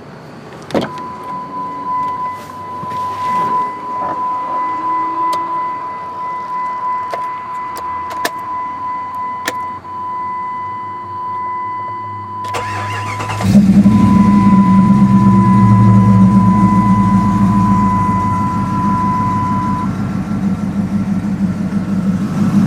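Rebuilt 5.2 Magnum V8 cranking and catching about 13 seconds in, then idling loudly through its dual exhaust with the new air gap intake and big throttle body. Before the start there are a few clicks and a steady high tone, which breaks off during cranking and comes back.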